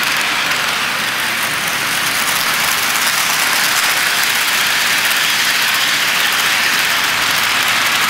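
HO scale model train running along the track: a steady rolling whir of the wheels on the rails and the small electric motor.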